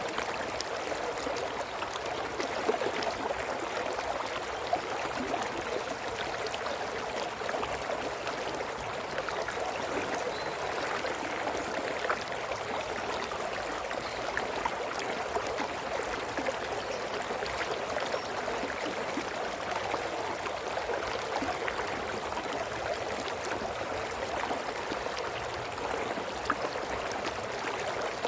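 A small brook babbling steadily: a continuous rush of flowing water, flecked throughout with small splashes and trickles.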